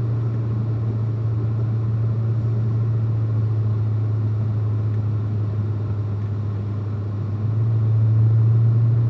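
Corvette ZR1's V8 and road noise heard inside the cabin while climbing: a steady low drone that grows louder about seven and a half seconds in as the engine pulls harder.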